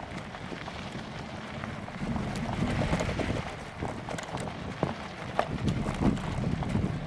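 Wind buffeting a bicycle-mounted camera's microphone while riding into a headwind, with a low rumble of tyres on a rough trail and scattered rattling clicks from the bike over bumps.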